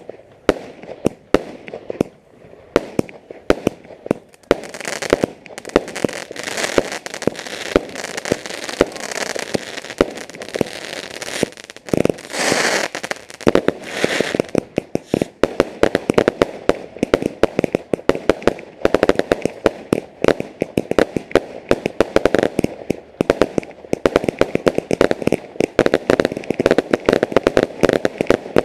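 Fireworks going off in a continuous string of sharp bangs and crackles, with a louder bang about halfway through followed by a hissing spray. The cracks come thicker and faster near the end.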